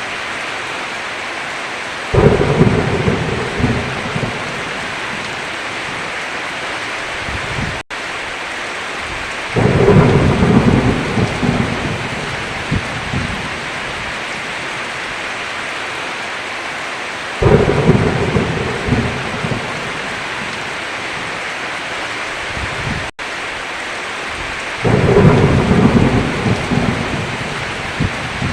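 Steady heavy rain with thunder crashing four times, each clap starting suddenly and rumbling away over a few seconds. The sound cuts out for an instant twice.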